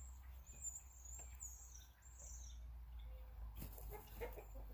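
Faint birdsong with high chirps, then a few short clucks from a chicken about three and a half seconds in, over a low steady hum.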